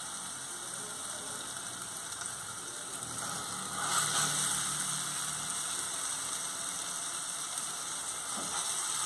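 Ground beef and onion sizzling in hot oil in a saucepan, a steady frying hiss. It grows louder about four seconds in as more raw meat is pressed into the pan.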